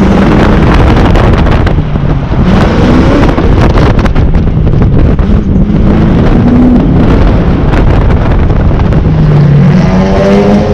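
2001 Ford Mustang GT's V8 engine revving up and down as the car is driven hard, its pitch rising and falling several times and climbing again near the end, under loud wind buffeting on the outside-mounted microphone.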